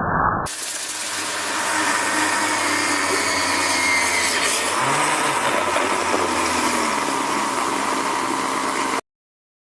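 Vacuum cleaner running steadily, a loud even rush of air with a faint motor whine, stopping abruptly about nine seconds in.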